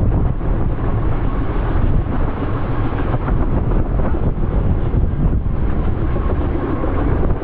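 Helicopter running, a steady low rumble of rotor and engine.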